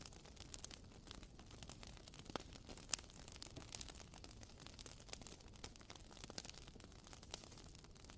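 Wooden wick of a WoodWick candle crackling, a faint, irregular patter of small pops like a tiny campfire, with one sharper pop about three seconds in.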